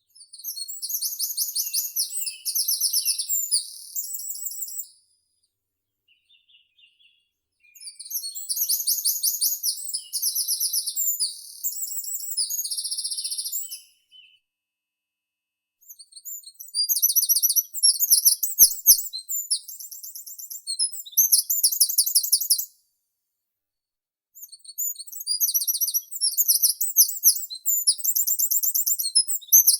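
A meadow songbird singing in four long bouts, each a string of rapid, very high repeated notes whose phrase changes every second or so, with short pauses between bouts.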